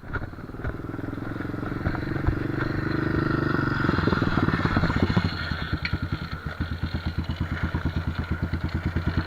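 Motorcycle engine running steadily. About four seconds in, its note turns into a fast, even pulsing, as at low revs, and grows louder toward the end.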